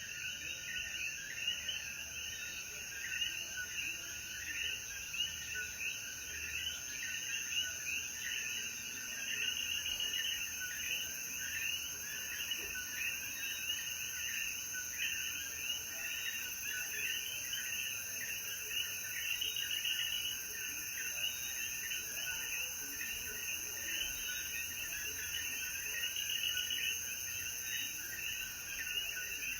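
A dense chorus of common coquí frogs calling after rain, their short rising calls overlapping several times a second, over a steady high-pitched insect hiss.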